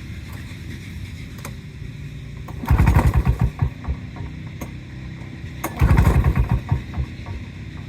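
Two pulls on the recoil starter of a Lawn-Boy 10324 mower's Duraforce two-stroke engine, each cranking it over in a quick chugging burst of about a second without it catching. The failure to start is one the owner puts down to a fitted fuel shutoff starving the engine of fuel.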